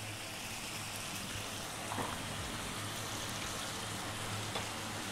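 Lamb pieces with onions and turmeric sizzling and bubbling steadily in a frying pan in a thin saffron-water sauce, over above-medium heat.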